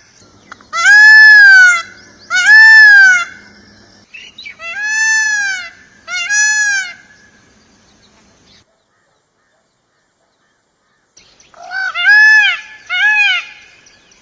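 Indian peafowl (peacock) giving loud calls: six calls in three pairs, each an arched note that rises and falls in pitch. There is a pause of a few seconds before the last pair.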